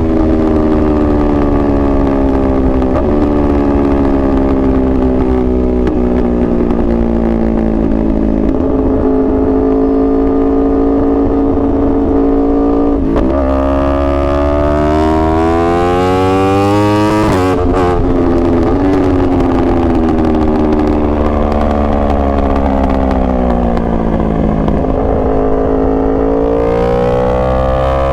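2021 Yamaha R1's crossplane inline-four running under way on the road. Its note sinks slowly as the revs drop, jumps sharply twice about 13 and 17 seconds in, sinks again, then climbs near the end.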